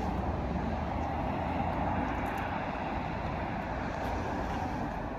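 Steady outdoor background rumble, a continuous even noise with no distinct events, fading out just after the end.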